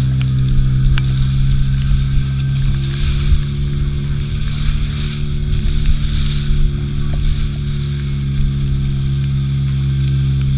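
Fishing boat's engine running at a steady speed, a constant low drone with no change in pitch.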